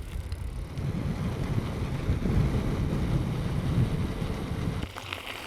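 Low wind rumble on the microphone with road noise from a bicycle ride, easing off suddenly about five seconds in.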